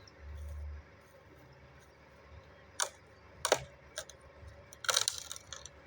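A machete striking hard pau-ferro wood: separate sharp chops about three and four seconds in, then a quick cluster of blows near the end.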